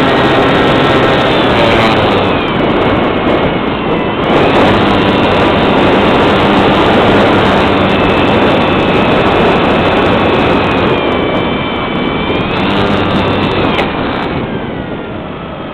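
An engine running loudly and continuously under heavy wind noise, its pitch shifting up and down several times, before it fades near the end.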